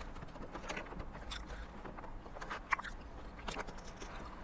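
Close-up sounds of a person chewing a mouthful of salad, with scattered small clicks and a fork scraping in a plastic takeout container. One sharper click comes about two and a half seconds in, over a low steady hum.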